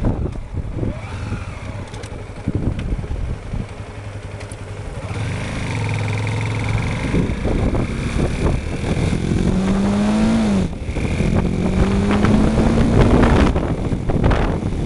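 Motorcycle engine accelerating under load. Its pitch rises steadily, drops suddenly at a gear change about two-thirds of the way through, then rises again.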